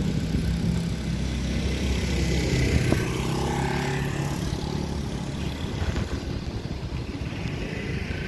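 A vehicle engine running steadily at idle amid outdoor street noise, with faint voices in the background.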